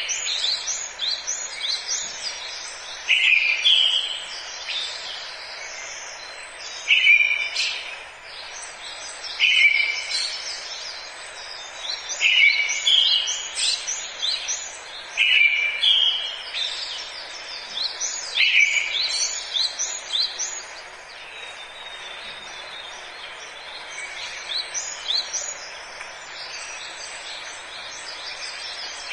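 Forest birds singing: one bird repeats a short song phrase about every three seconds, among many quicker, higher chirps from other birds, over a steady background hiss.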